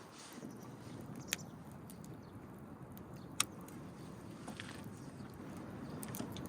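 Wood fire crackling, with a few sharp pops from the burning firewood, the loudest about a second and a half in and a little past three seconds, over a low steady background noise.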